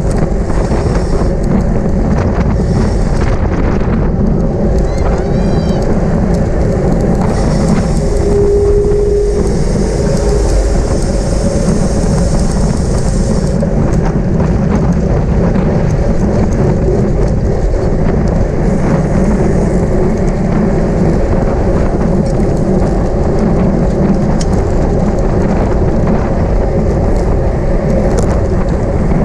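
Steady wind buffeting on a bicycle-mounted camera's microphone, a loud continuous rumble mixed with tyre and road noise from a racing bike at speed.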